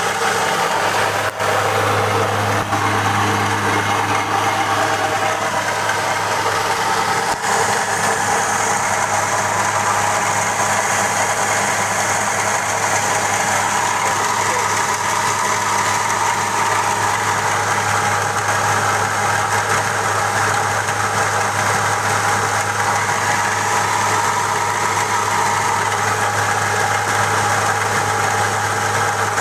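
Mini rice huller (LM 100), driven by a 5 hp electric motor, running steadily with a constant low hum under a wide mechanical rush.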